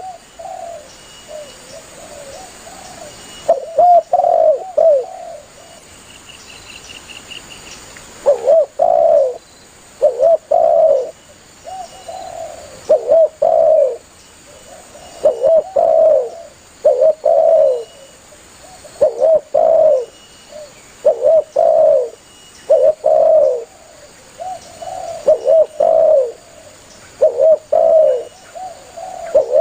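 Spotted dove cooing: repeated low coo phrases, a few seconds of pause early on, then a phrase every second or two. A faint high bird trill sounds briefly between the coos.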